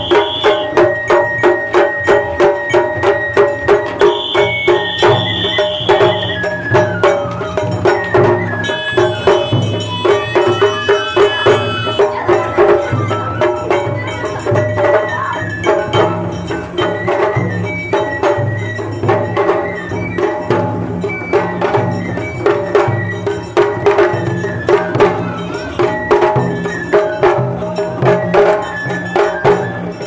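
Japanese festival hayashi music: drums keep a steady beat of about two strokes a second under a pitched melody line, played without pause.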